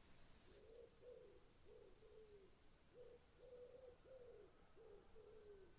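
Faint bird calls in the background: a run of short, low, slightly falling notes, about two a second.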